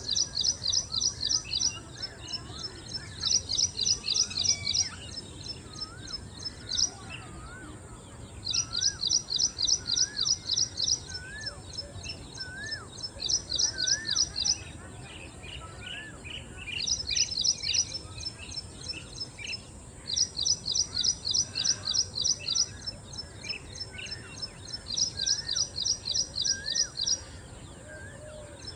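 Ashy prinia singing: repeated bursts of rapid, high, identical notes, about six a second, each burst lasting a second or two with short pauses between. Softer, lower rising-and-falling bird notes sound in the background over a steady high hiss.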